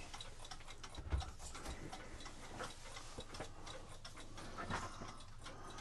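Faint, steady ticking of a mechanical clock.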